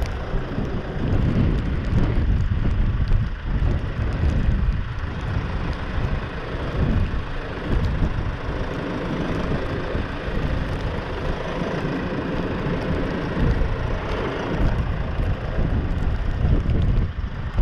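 New Holland T5 tractor's diesel engine running as it works, mixed with wind buffeting the microphone in a snowstorm.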